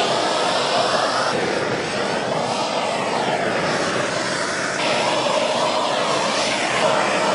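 Handheld propane torch burning with a steady rushing hiss as its flame is swept over painted wood. The hiss shifts in tone about one and a half and five seconds in.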